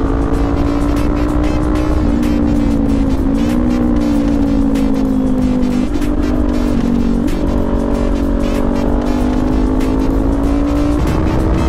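Kawasaki Ninja 400 parallel-twin with an SC Project exhaust running on the move, its engine note rising and falling several times with throttle and gear changes, over a heavy rush of wind.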